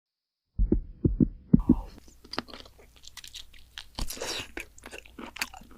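Close-miked biting and chewing of crunchy food: a few loud low thuds about half a second in, then a run of crisp crunches and wet clicks.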